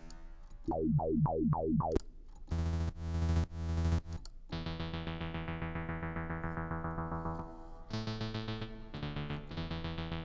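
Synthesizer presets auditioned one after another: a run of about five quick falling zaps, a few short loud chords, then a held chord that changes near the end into a pulsing rhythmic pattern.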